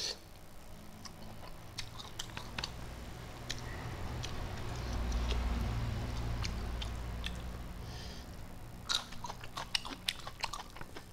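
A man chewing fish and rice with his mouth open, smacking his lips, with soft wet clicks throughout. A low rumble swells in the middle, and a quick run of smacking clicks comes about nine seconds in.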